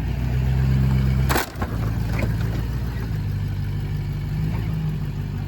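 2003 Chevrolet pickup's LB7 Duramax 6.6-litre V8 turbodiesel running under load while towing a car on a strap, revving higher at first and then dropping back right after a single sharp crack about a second and a half in.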